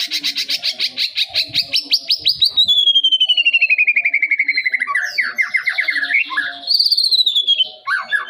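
Young white-rumped shama singing: a fast, rapid-fire trill that slides slowly down in pitch over about five seconds, then a run of varied whistled phrases with rising and falling slides.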